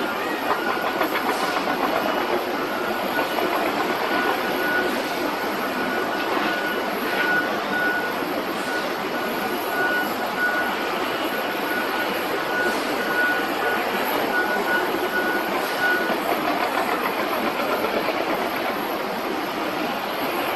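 Jet engines of a China Airlines Airbus A321neo airliner running, a steady rush of noise with a thin, steady high whine that fades out near the end.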